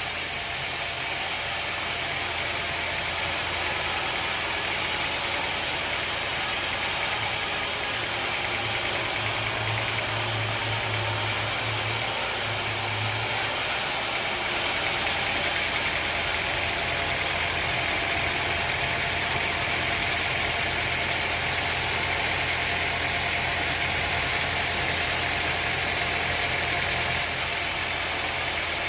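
Sawmill machinery running steadily: a constant motor hum under a continuous high hiss, with the hum shifting slightly about halfway through.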